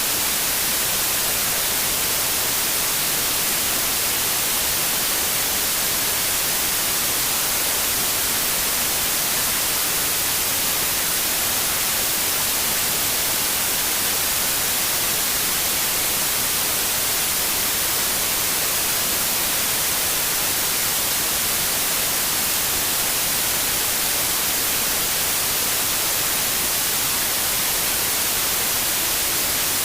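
Steady, unchanging white noise, an even hiss brightest in the high frequencies.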